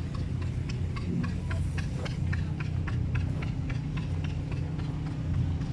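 A running engine nearby: a steady low hum with a light, regular ticking about four times a second.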